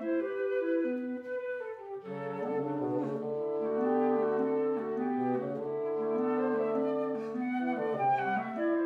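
Woodwind quintet of flute, oboe, clarinet, French horn and bassoon playing classical chamber music, several melodic lines moving at once. Lower parts enter about two seconds in.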